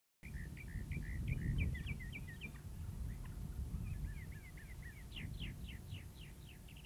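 Small birds chirping over a low rumbling noise that cuts in suddenly at the start. Near the end one bird gives a quick series of about eight down-slurred notes, roughly four a second, which then fade.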